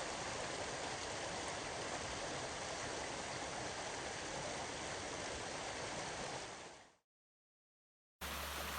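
A small mountain creek rushing steadily after flooding. It fades out near the end and cuts to a moment of silence before a different steady noise with a low hum starts.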